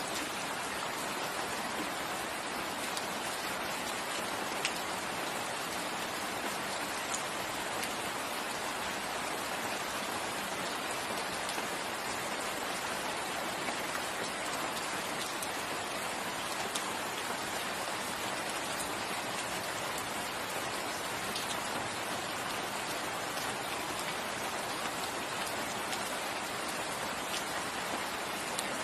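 Steady rain falling in a forest, an even hiss with scattered individual drops landing.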